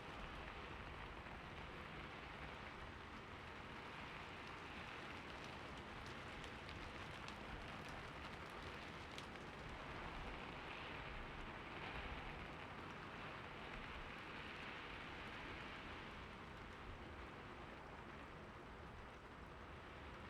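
Steady rain falling, an even soft hiss with a few single drops ticking out of it in the first half.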